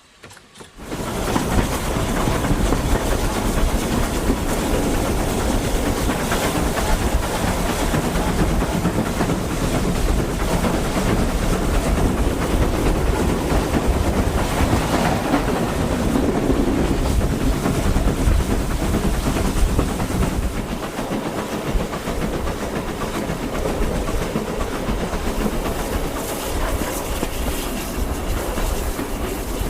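Train running past on the rails, a steady heavy rumble with wheels clicking over the rail joints, starting abruptly about a second in.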